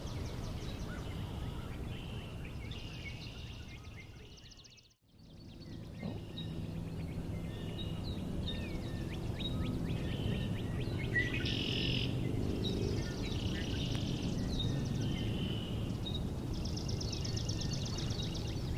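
Chorus of songbirds singing, with several rapid, evenly pulsed trills, over a steady low background rumble. The sound fades out and back in briefly about five seconds in.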